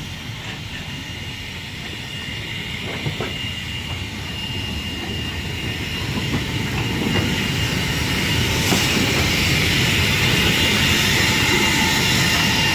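Narrow-gauge train running and growing steadily louder as it draws near, with a steady high squeal and a few sharp clicks from the wheels on the rails.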